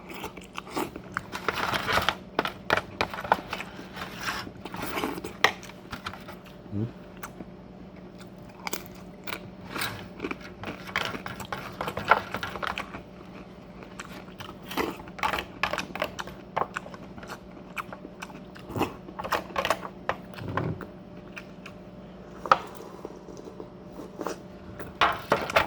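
Close-up eating sounds from fish ceviche: irregular chewing, biting and crunching with wet mouth clicks, over a faint steady hum.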